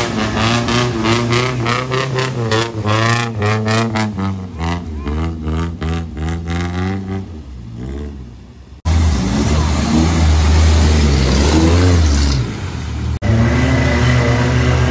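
Off-road 4x4 engines revving up and down repeatedly while driving through a muddy river. The sound fades about two-thirds of the way through, then cuts abruptly to a louder, lower engine, with a second cut near the end.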